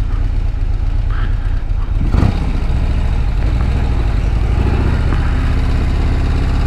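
Harley-Davidson Road Glide CVO ST's Milwaukee-Eight 121 V-twin running steadily at low speed, with a brief louder burst about two seconds in.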